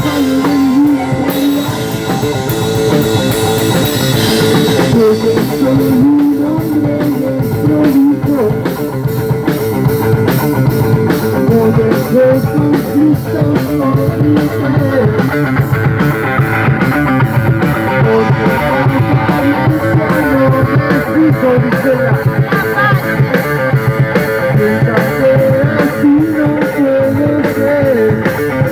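Live rock and roll band playing, electric guitar over drum kit, with cymbals ringing in the first few seconds.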